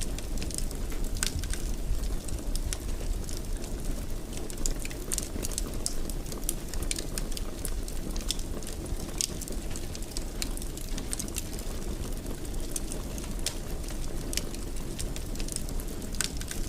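Fireplace fire crackling: a steady low rumble of burning with frequent sharp, irregular pops and snaps.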